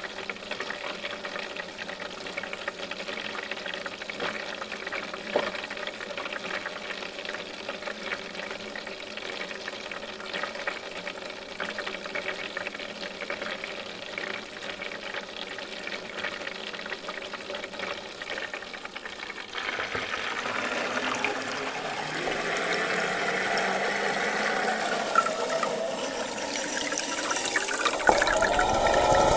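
Water pouring and sloshing. About two-thirds of the way in it grows louder, and wavering tones come in toward the end.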